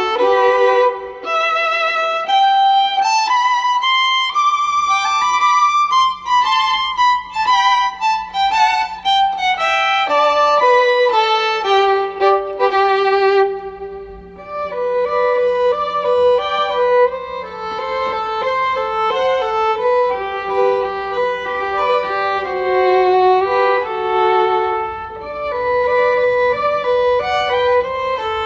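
Background music led by a solo violin playing a melody, with notes held and moving stepwise.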